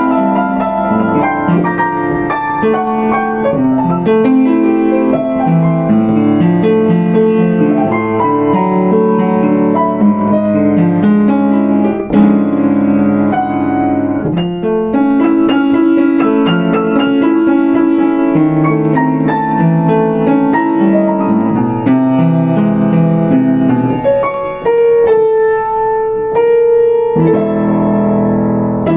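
Yamaha U5 upright piano played continuously, a busy flow of broken-chord notes over a moving bass. One sharp knock cuts through near the middle, and about three-quarters through the texture thins to a held note with a few high notes before the full chords return.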